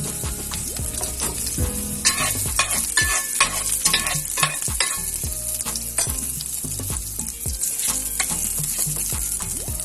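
Chopped garlic sizzling in hot oil in a frying pan while a spatula stirs it, with clicks and scrapes of the spatula against the pan, busiest from about two to five seconds in.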